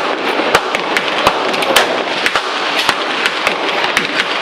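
Gunfire on a shooting range: irregular sharp shot cracks of varying loudness, roughly three a second, none standing far above the rest, over a steady background of noise.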